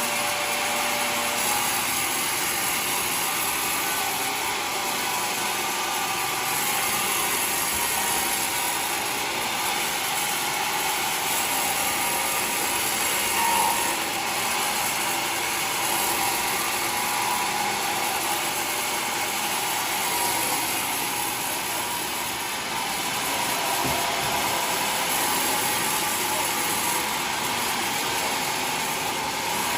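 Homemade sawmill running with a steady, even mechanical noise that holds at one level throughout.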